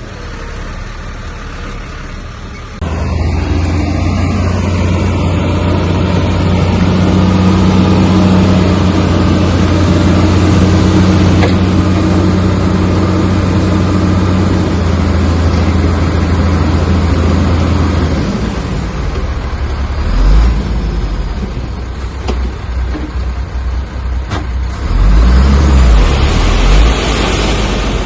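Heavy diesel earthmoving machinery at work: a steady engine drone that comes in loud about three seconds in and holds until about two-thirds of the way through, followed by irregular deep rumbles and thumps near the end.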